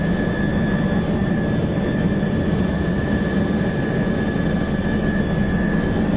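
Steady jet-airliner engine roar, as used for a sound effect, with a thin steady high whine over a low rush and no change in pitch or level.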